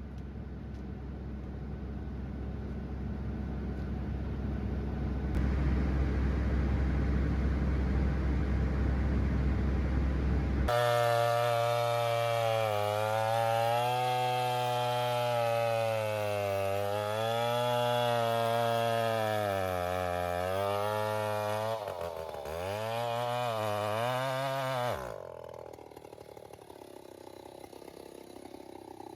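A low machine rumble, then about ten seconds in a chainsaw cuts in abruptly and runs hard, its engine pitch dipping and recovering again and again as it bogs in the cut. It stops suddenly near the end, leaving a quieter engine hum.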